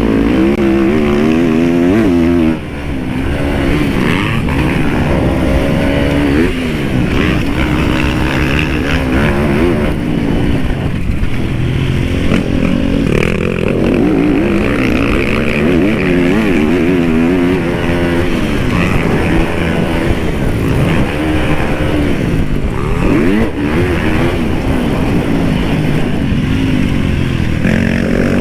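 Dirt bike engine being ridden hard around a motocross track, its revs rising and falling over and over through throttle and gear changes, with a brief drop about two and a half seconds in as the throttle is chopped.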